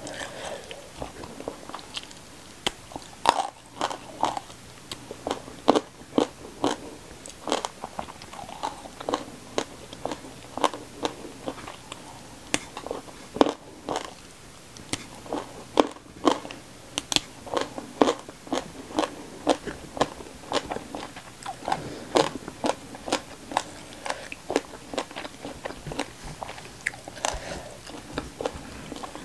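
Close-miked chewing with many sharp, irregular crunches, from biting raw pea eggplants (rimbang) off the stem.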